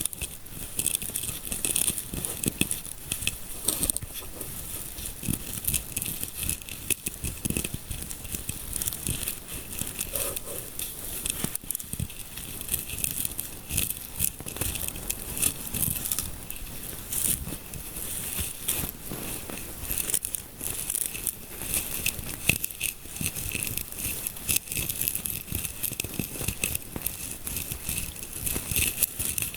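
Fingers rubbing and scratching close against the microphone, simulating a scalp massage: a continuous, dense crackling rustle of many small clicks.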